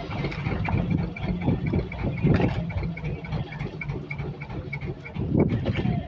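Boat engine running steadily, a continuous low hum with rough, uneven pulses over it.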